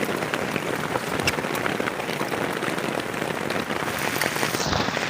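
Heavy rain falling steadily on a plastic tarp shelter, with sharp individual drop hits.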